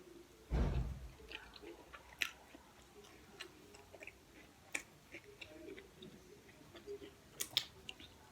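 Close-miked chewing and mouth sounds of someone eating soft bread, with small wet clicks throughout. A dull low thump comes about half a second in.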